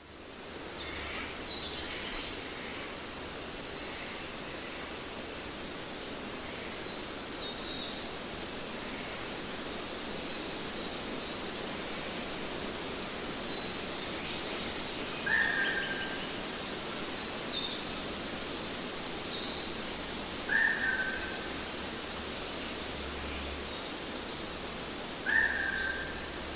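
Birds calling over a steady background hiss: scattered quick falling chirps high in pitch, and a short lower call that comes three times, about five seconds apart, in the second half.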